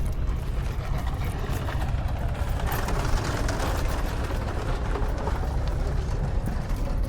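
Vehicle engine running with a steady low rumble; a louder rush of noise swells up about three seconds in and fades away.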